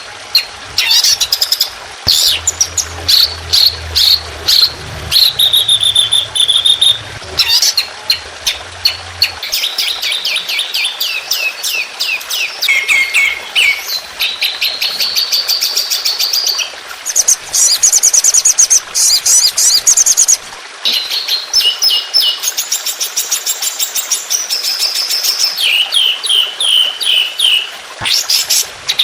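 Recorded songbird song used as masteran for training cage birds: a continuous run of rapid high trills and repeated chirp phrases, each a second or two long, one after another with short gaps and changing pitch from phrase to phrase.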